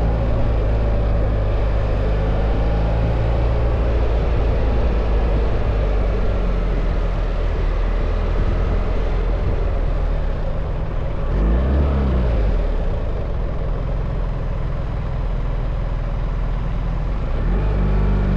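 BMW R1300 GS boxer-twin engine running steadily under riding, with wind rush over the helmet mic; about twelve seconds in the engine note drops and climbs back up.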